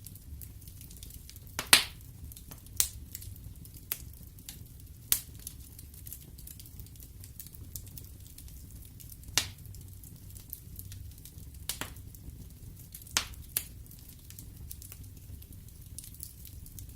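Wood fire burning in a fireplace: a low steady rumble of the flames with sharp, irregular pops and crackles from the burning logs, the loudest pop about two seconds in.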